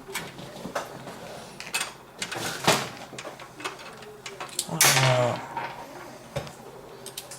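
Clicks, knocks and scraping of metal and plastic as a graphics card and its slot brackets are handled and seated in a PC case, with a louder scraping swell about two and a half seconds in and a brief pitched sound about five seconds in.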